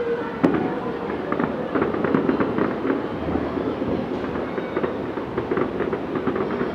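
Distant fireworks crackling in a dense, irregular run of pops over a steady rumble, with one sharper bang about half a second in.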